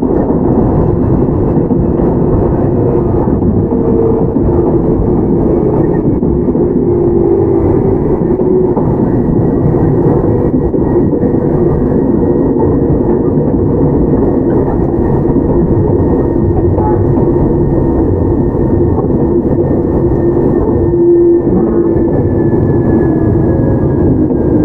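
Onboard running noise of a Toyama Chiho Railway 17480-series electric train (ex-Tokyu 8090 series) travelling at speed: a steady, loud rumble of the car on the rails, with a faint high whine that falls slightly near the end.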